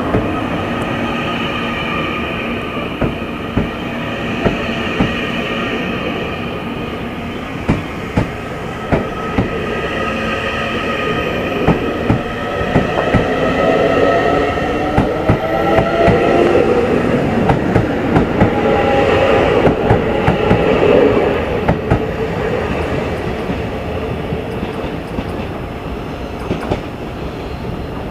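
A train running through the station: steady rail rumble with a series of wheel clacks over the track, and a whine whose pitch shifts up and down partway through.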